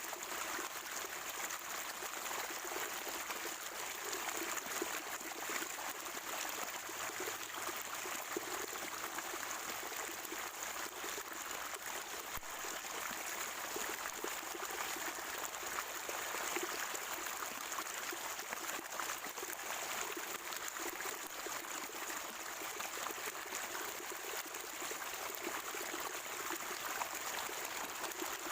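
Water of a natural spring trickling and gurgling steadily, with no breaks.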